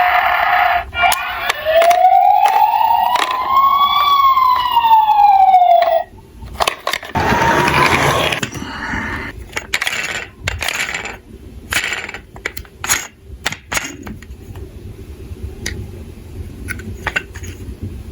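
A toy emergency vehicle's electronic siren gives one slow wail that rises and then falls. After it come a short rushing rattle and a run of sharp clicks and knocks from small toy cars, which thin out toward the end.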